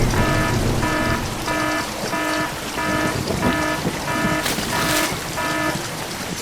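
A short electronic beep repeating about one and a half times a second over a steady hiss, with a couple of sharp clicks about four and a half seconds in.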